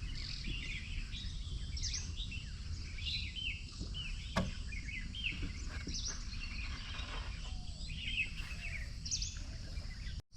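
Many wild birds chirping and calling at once, short quick notes and whistles overlapping, over a steady low rumble. A single sharp knock about four seconds in.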